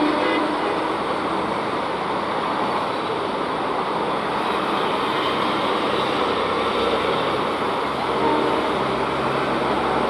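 Metre-gauge passenger train passing close by, a steady rumble of its coach wheels on the rails, with a low hum coming in near the end.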